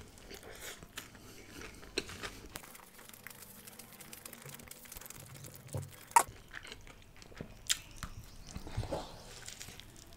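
Close-miked chewing of a mouthful of egg paratha roll filled with chicken, paneer and onion. Several sharp clicks of the mouth stand out, the loudest about six seconds in.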